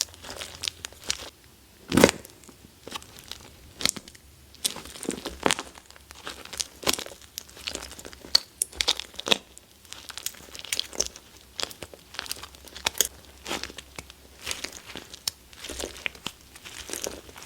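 Used, reworked wax being squeezed and worked by hand, giving irregular sharp crackles and crinkles. The loudest crack comes about two seconds in.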